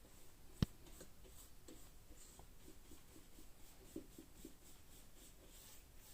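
A paintbrush applying water-based acrylic paint in faint, short scratchy strokes, with one sharp click about half a second in.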